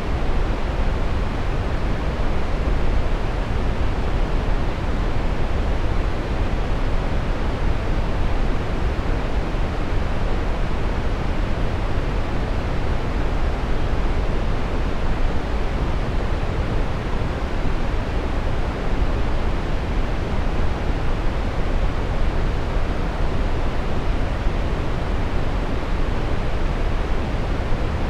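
Steady brown noise: an even, unchanging hiss weighted toward the low end, deep and rumbling, fading off toward the highs.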